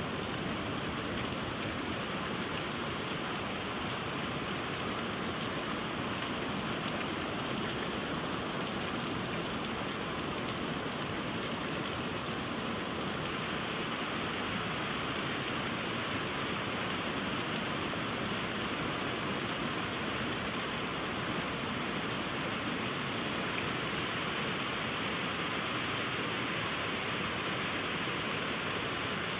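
Steady rainfall on trees and a fish pond: an even, unbroken patter and hiss.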